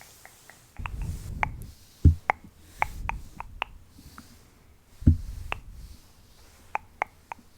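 Close-miked small clicks and taps, with two sharper knocks about two and five seconds in and stretches of muffled low rumbling, like something being handled right at the microphone.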